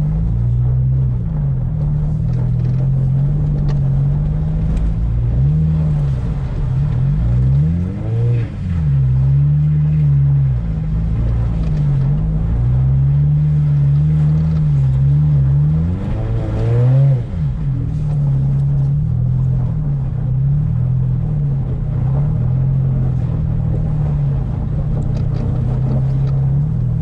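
Turbocharged Scion FR-S flat-four engine revving up and down as the rear wheels spin on ice without grip, with two sharper, higher rev climbs a third and two thirds of the way through.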